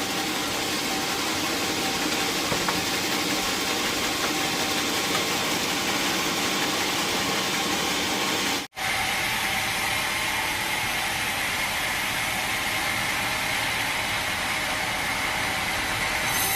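Sawmill machinery running with a steady, noisy din. It breaks off for an instant a little past halfway, and after that a steady high whine runs along with it.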